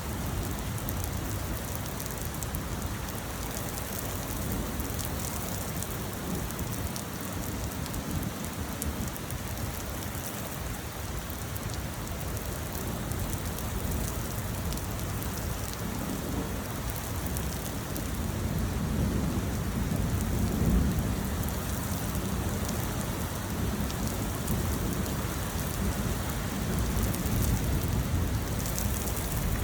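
Rain falling steadily, with a low rumble of thunder building in the second half.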